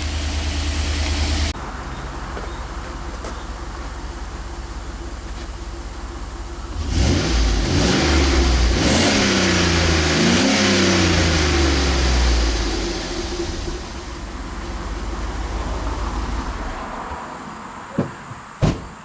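Engine of a 2011 GMC Sierra 1500 pickup running through a newly fitted muffler, nice and quiet at idle. It is revved up and down several times from about seven seconds in, then drops back to idle. Two sharp knocks near the end.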